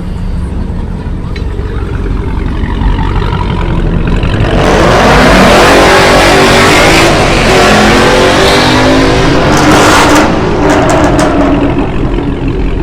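A car engine revving hard. It grows loud about four and a half seconds in, its pitch rising and falling, then eases off near the end, with a few sharp pops around ten seconds in.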